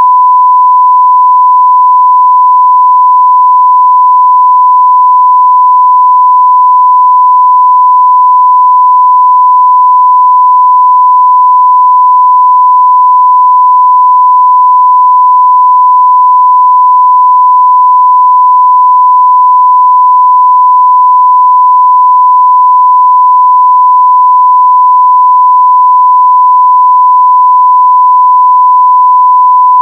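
Steady 1 kHz sine-wave test tone at full level, a single unbroken pure tone.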